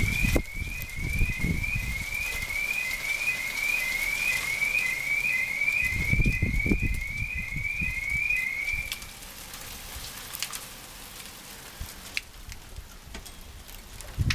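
Hail pattering and crackling, with an alarm chirping a short rising tone about twice a second that stops about nine seconds in. Low rumbles come near the start and again about six seconds in, and a few sharp ticks of hailstones follow.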